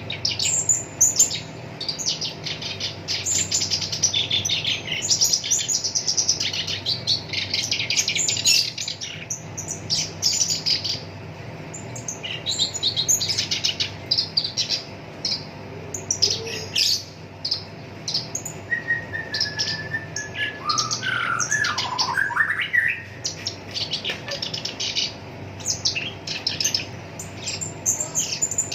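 Black-browed reed warbler singing a fast, harsh, chattering song of rapid rattling notes and trills. About two-thirds of the way through, a lower sliding whistled phrase comes in. A faint steady hum runs underneath.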